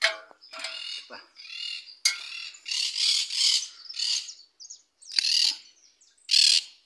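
Birds calling: a string of short, harsh, rasping calls, several in quick succession from about two seconds in and two more near the end.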